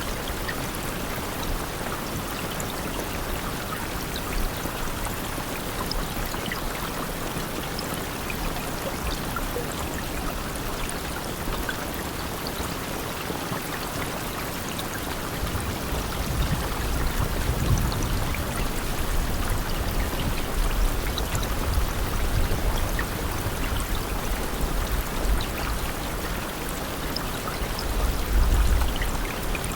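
Steady rain, an even hiss of falling water dotted with individual drop ticks, with a low rumble swelling now and then, strongest around the middle and near the end.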